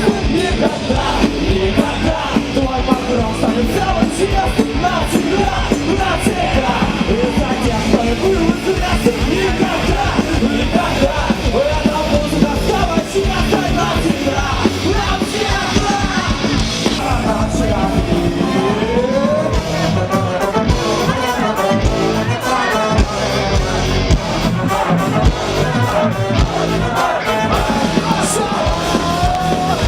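A rock band playing live and loudly, with singing over the band.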